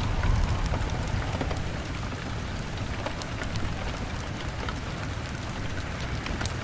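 Steady rain on window glass with a low rumble underneath, and scattered sharp crackles of a wood fire throughout.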